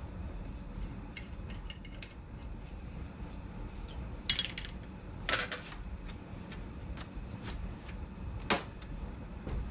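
Metal tools clinking and scraping while threads are cut by hand with a tap: light scattered clicks, with three louder brief metallic clanks about four, five and a half and eight and a half seconds in.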